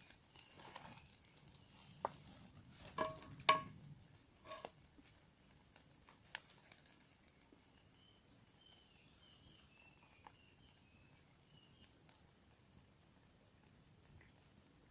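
Wood campfire crackling: irregular sharp pops and snaps, a quick cluster with the loudest pop about three and a half seconds in, fewer pops in the second half over a faint hiss.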